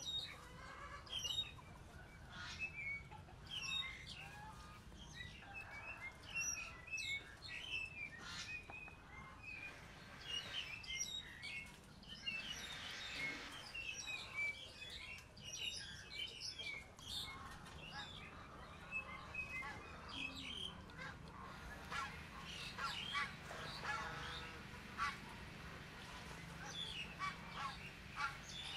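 Small birds chirping again and again in short quick calls, with close chewing and sucking sounds of someone eating chicken feet.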